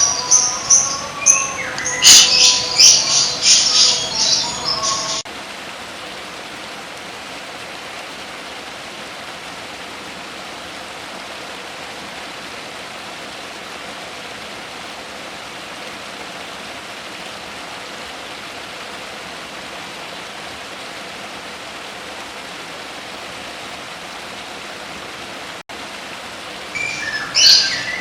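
A songbird sings rapid, high chirps and trills for about five seconds. The song breaks off abruptly into a long, even, steady hiss. Chirping starts again near the end.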